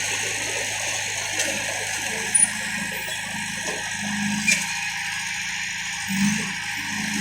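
Heavy diesel engine of earthmoving equipment running steadily, with a few short sharp clicks, one about a second and a half in and others near two and a half and four and a half seconds.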